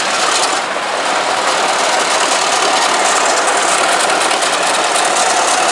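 Vintage tractor engine running steadily, a loud even mechanical drone.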